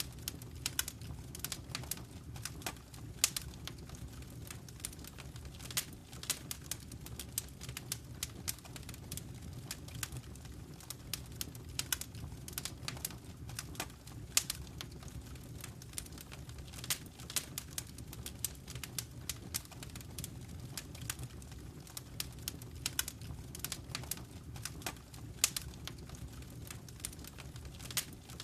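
Wood fire crackling in a fireplace: frequent irregular pops and snaps over a steady low rumble of the burning fire.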